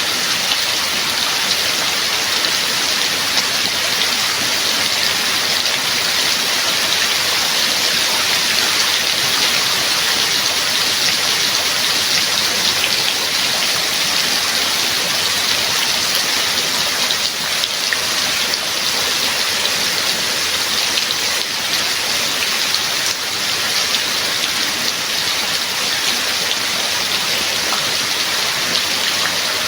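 Steady, heavy rain falling, a dense even hiss of drops without let-up.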